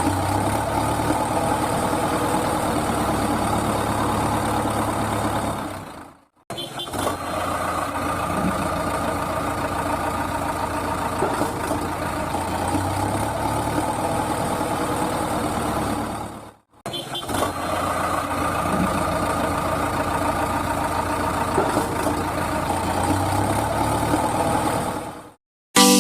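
Tractor engine idling steadily, a repeating recording that cuts out briefly about every ten seconds.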